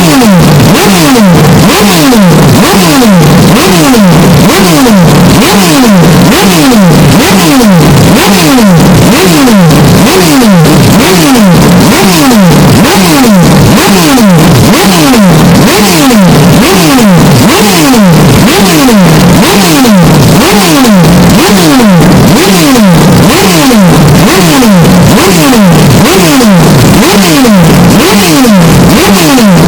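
Hyundai Elantra N's turbocharged four-cylinder engine and exhaust, amplified until heavily distorted and clipped. The engine note sweeps downward in pitch over and over, more than once a second.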